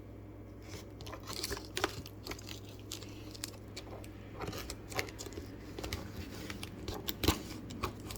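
Packaging being handled: irregular crinkling and sharp clicks, a few louder than the rest, over a steady low hum.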